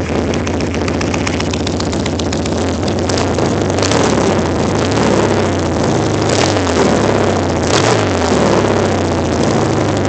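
1978 BMW R100/7's air-cooled flat-twin boxer engine idling steadily through short aftermarket exhaust pipes, still warming up after a cold start. A few brief surges of noise break in about four, six and eight seconds in.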